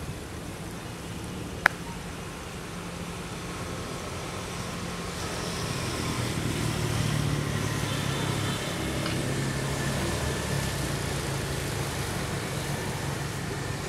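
A motor vehicle's engine running steadily, growing louder in the middle as it passes and then easing off, with one sharp click just under two seconds in.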